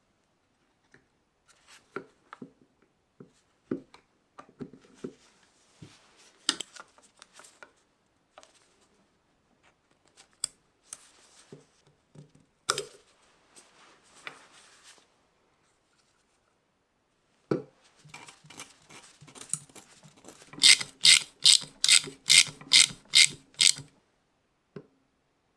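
Workshop handling of metal parts and hand tools: scattered clicks, knocks and scrapes, then near the end a quick run of about nine even strokes, two or three a second.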